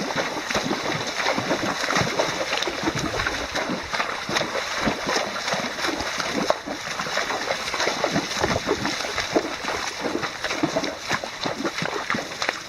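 Horses' hooves splashing and sloshing through shallow creek water, a rapid irregular run of splashes over the steady rush of the water.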